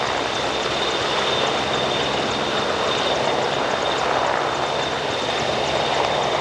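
CH-149 Cormorant search-and-rescue helicopter in flight, its three General Electric turboshaft engines and rotors running steadily, with a constant high turbine whine over the rotor noise.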